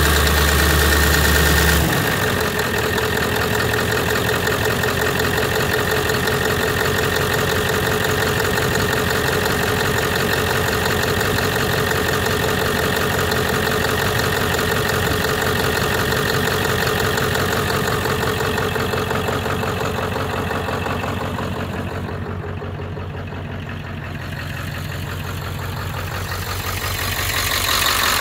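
Ford 7.3 L Power Stroke V8 turbodiesel idling with an even diesel clatter, warming up after a −8 °C cold start. The sound grows quieter for a few seconds near the end, then comes back up.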